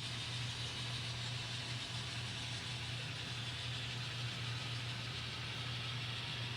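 Diesel locomotive engine sound from an N scale model train's sound decoder, running steadily with a low hum and a hiss.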